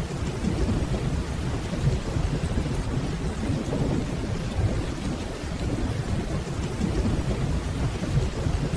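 Steady rainfall with a continuous low rolling rumble of distant thunder underneath, holding at an even level with no sharp claps.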